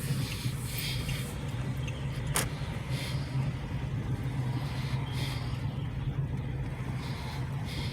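A car driving slowly, heard from inside: a steady low engine and road drone, with one sharp click about two and a half seconds in.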